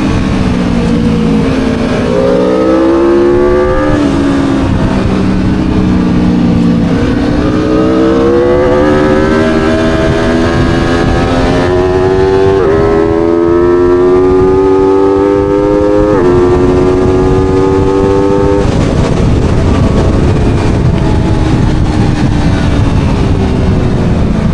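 Aprilia Tuono V4 motorcycle's V4 engine on track: it slows at first, then revs up hard through the gears, with two upshifts about halfway through and again a few seconds later, under a steady rush of wind noise. Near the end the engine note sinks into the wind noise as the throttle eases off.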